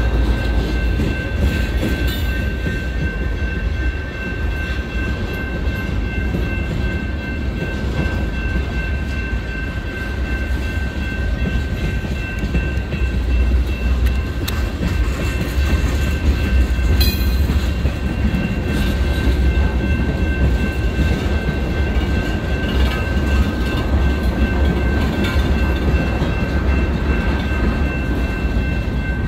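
Freight cars rolling through a railroad grade crossing: a heavy, steady rumble with wheel clatter over the rail joints, and steady high ringing tones above it.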